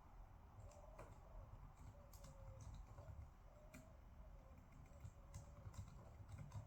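Near silence: quiet room tone with a low hum and a few faint, scattered clicks.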